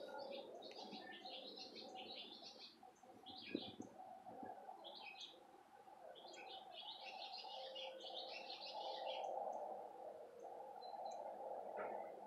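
Small birds chirping in short twittering bouts, several of them running together for a couple of seconds. A faint steady hum lies underneath.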